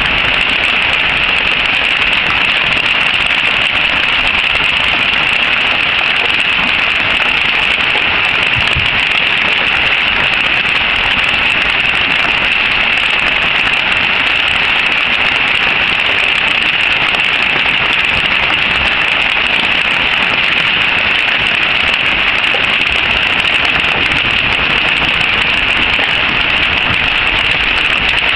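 Hail falling hard and pelting surfaces, a dense steady clatter-hiss that does not let up.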